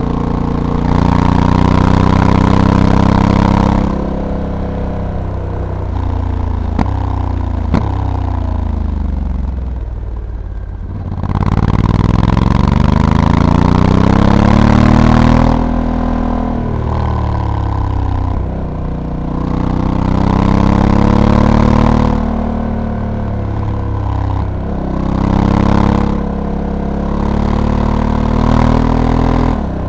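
Honda Africa Twin DCT's parallel-twin engine pulling hard in several bursts of throttle and falling away between them, its pitch climbing and dropping, with abrupt jumps as the dual-clutch gearbox changes gear. Two sharp clicks sound in the middle of the longest fall.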